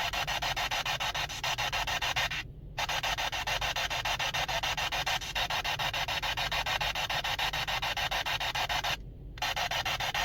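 Steady static hiss with a fast, even flutter that cuts out sharply for a moment twice.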